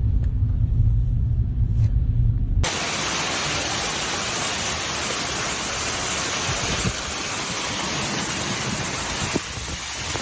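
A low rumble that cuts off suddenly about two and a half seconds in, giving way to a steady, loud hiss of heavy rain pouring down.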